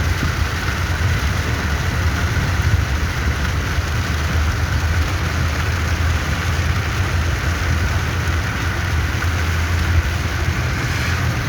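Car driving in heavy rain, heard from inside the cabin: a steady low road and engine rumble under an even hiss of rain on the car.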